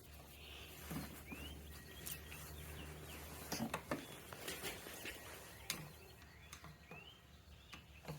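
Faint scattered clicks and taps of small parts and a screwdriver being handled, as a scooter's handlebar switch housing is unscrewed and taken apart. A few short rising chirps sound among them, with a low steady hum beneath.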